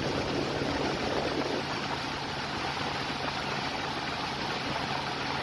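Jeep Cherokee 4.0-litre inline-six idling steadily during warm-up, heard up close in the engine bay beside the spinning accessory belt and pulleys: an even rushing noise over a low hum.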